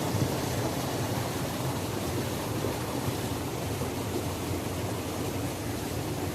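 Waterfall: a steady rush of falling water, deepest and strongest in the low range, without a break.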